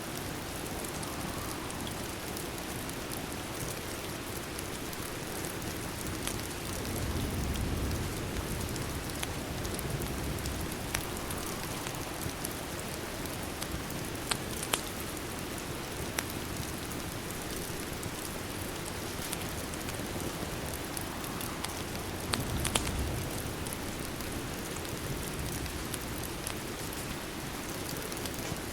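Steady rain hiss mixed with a fireplace, with a few sharp crackles near the middle and again near the end. The rain swells softly twice, lower and fuller for a moment.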